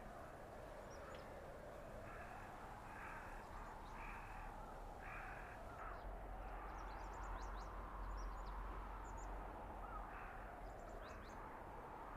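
Blizzard wind blowing steadily through a winter forest, with a howling tone that slowly rises and falls. A bird calls about four times, roughly once a second, a couple of seconds in, and faint high chirps come through later.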